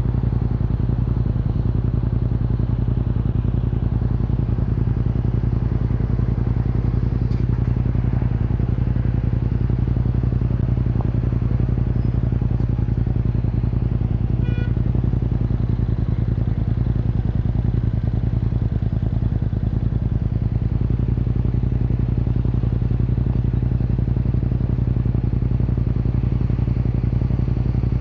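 Yamaha MT-07 parallel-twin engine through an Akrapovic Racing Line exhaust, running at a steady, unchanging pitch.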